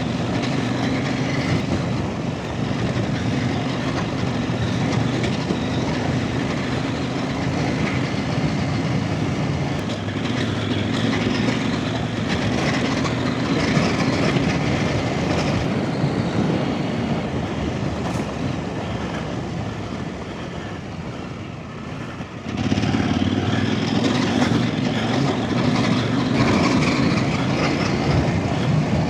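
Off-road trail motorcycle engine running under way, its note easing off a little around twenty seconds in, then picking up sharply about twenty-two seconds in as the throttle opens.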